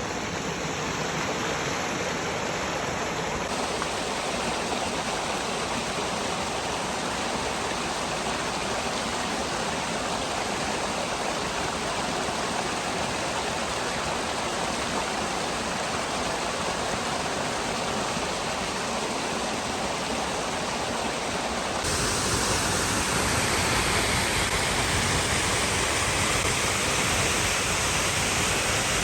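Waterfall rushing steadily, a dense even roar of falling water; it jumps louder and brighter a little over twenty seconds in.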